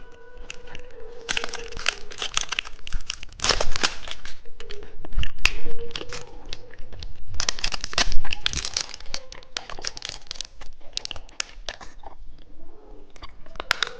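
Plastic candy packet crinkling and being torn open by hand, with several spells of dense crackling and quieter handling in between.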